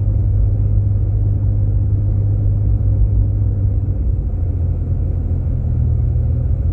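Jeep Grand Cherokee driving, heard from inside the cabin: a steady low drone of engine and road rumble. The hum shifts slightly in pitch about four seconds in.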